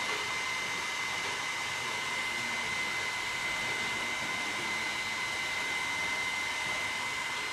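Leister Sonara S1 hot air hand tool blowing steadily: a rush of air with a constant high fan whine.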